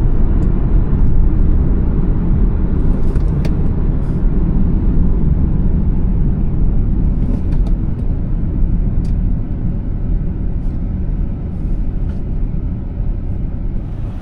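2014 BMW 435i's turbocharged inline-six and tyres on the move: a steady, loud low rumble of engine and road noise that slowly gets quieter toward the end.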